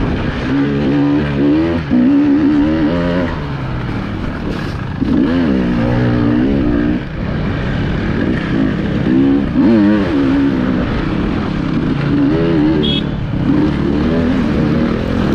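Enduro motorcycle engine heard from the rider's onboard camera, revving up and down over and over as the throttle is worked, its pitch rising and falling every second or so.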